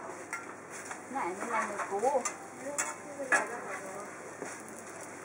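Thai roti pancake frying in oil on a flat griddle, sizzling steadily, with several sharp clicks and scrapes of a metal spatula against the griddle.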